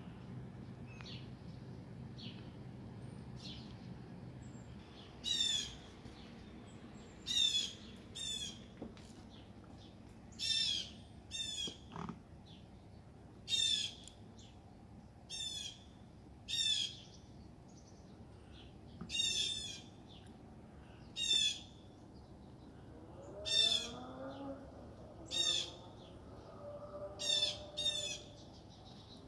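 A bird calling over and over outdoors: short, high-pitched calls every second or two, some coming in quick pairs. A faint low hum fades out in the first few seconds.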